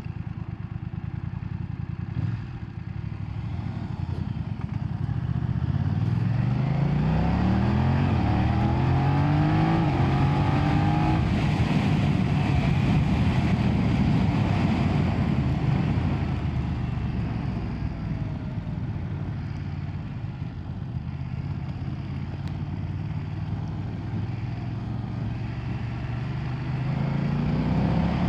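BMW F900R's 895cc parallel-twin engine under way. About six seconds in it revs up through several gears in quick succession, each rise in pitch cut short by a shift, then settles to a steadier cruise before rising again near the end.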